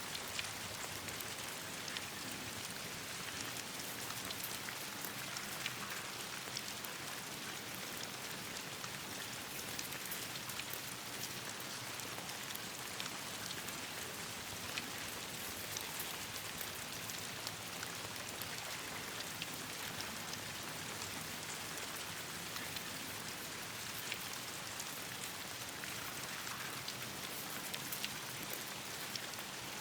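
Steady rain falling on leaves and branches, with many small sharp ticks scattered throughout.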